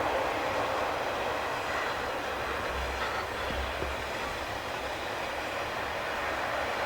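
Passenger train running past at low speed, a steady rumble of wheels on the rails.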